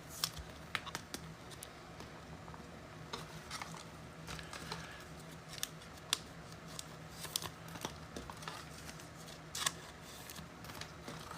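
Trading cards and pack wrappers being handled at a table: scattered light clicks, taps and rustles, with sharper snaps about six and nine and a half seconds in.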